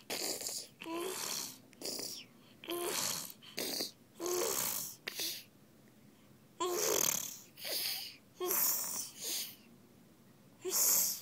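A baby making repeated breathy, raspy vocal noises that sound like some weird animal: about a dozen short bursts, each starting with a brief voiced note and trailing into a hissy breath, with short pauses between them.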